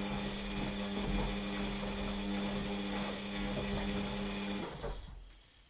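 Washing machine motor turning the drum during the wash, a steady hum with laundry and water swishing round, then the motor stops about five seconds in.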